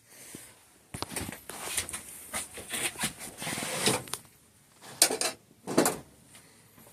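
A hand tool scraping and clicking against the metal body of a Fox DPS rear shock as it is worked open, with a couple of sharp knocks about five and six seconds in.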